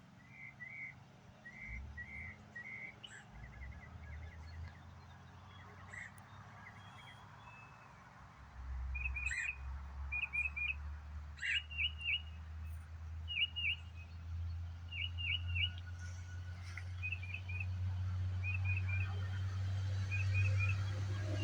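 Small birds chirping in short, repeated phrases of a few quick notes. A low steady rumble comes in about eight seconds in and grows louder.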